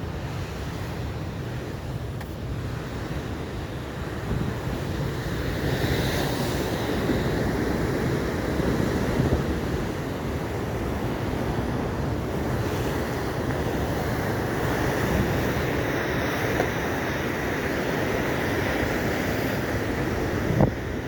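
Atlantic ocean surf breaking and washing in, growing louder about five seconds in, with wind rumbling on the microphone.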